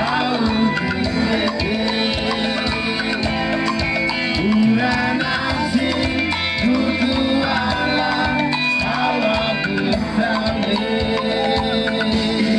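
Live band music: a singer over an upbeat, Latin-tinged groove of drums and percussion.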